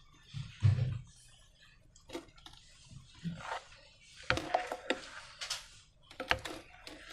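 Slime being squeezed and stretched by hand: irregular short clicks and squishes, with two soft low thuds in the first second.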